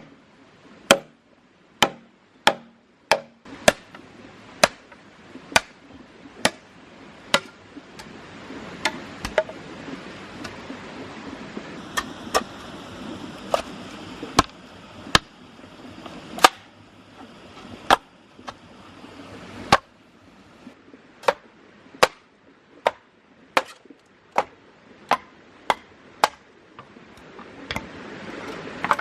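Wood being chopped with a large bush knife in a steady series of sharp strokes, a little over one a second.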